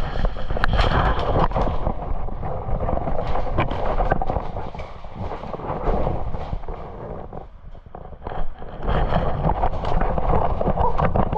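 Airsoft guns firing in scattered sharp cracks over a dense, loud low rumble on the microphone.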